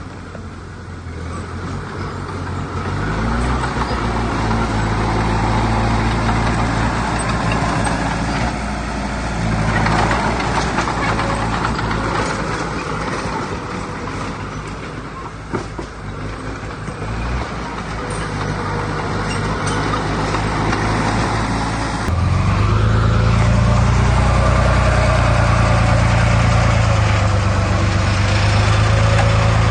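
Heavy diesel engines of earthmoving machinery running under load, the engine note shifting as the work goes on. About 22 seconds in it becomes abruptly louder and then holds steady.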